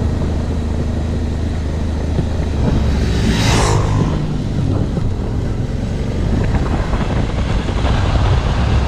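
Suzuki V-Strom motorcycle engine running steadily on a dirt road, with a dirt bike passing about three and a half seconds in, its noise swelling and fading quickly.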